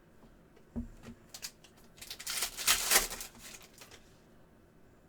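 Trading cards being handled: a soft knock about a second in, a few light clicks, then a stretch of cards sliding and rustling against each other.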